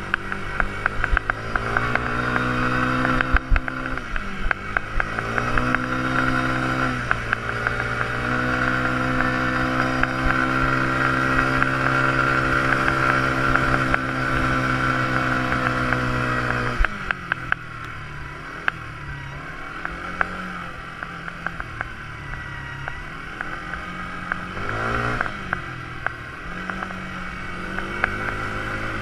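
Quad bike engine running under way. Its pitch dips and rises with the throttle, holds steady for several seconds in the middle and drops off about 17 seconds in, then climbs again near the end. Short clicks and knocks come through throughout.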